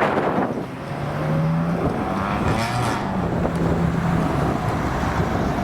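A car engine as the car drives off, its note rising in pitch about two to three seconds in as it accelerates.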